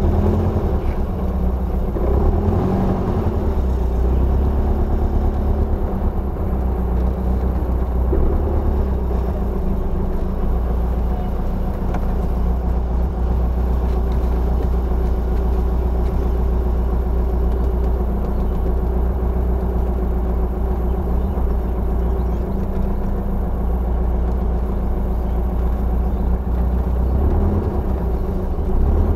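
Engine of a 2.0-litre 1971 Volkswagen Beetle running steadily while the car drives slowly, heard from inside the cabin as a constant low drone.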